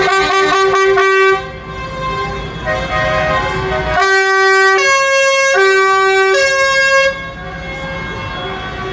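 Horns on passing tractors and vehicles sounding long, loud blasts at several different pitches: one held blast at the start, then two more back to back from about four seconds in, with engines running underneath between them.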